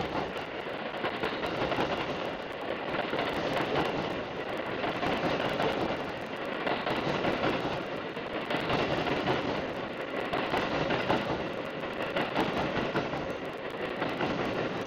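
JR West 281 series Haruka limited express electric train passing by, its running noise swelling and fading every couple of seconds as the cars roll past.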